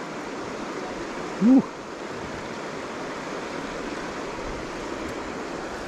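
Steady rush of flowing river water, with a short rising 'woo' shout about a second and a half in.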